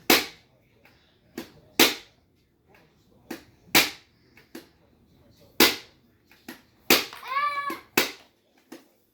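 Sharp clacks of hard plastic toy pieces striking, one every second or two. About seven seconds in, a short child's vocal sound.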